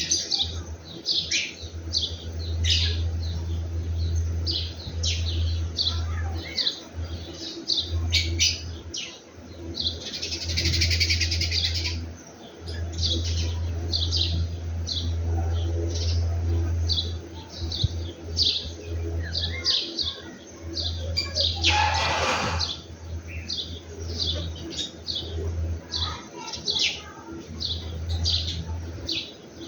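Small birds chirping over and over in short, quick high calls. Two brief noisy rustles break in, one about a third of the way through and one about three-quarters through, over a steady low hum.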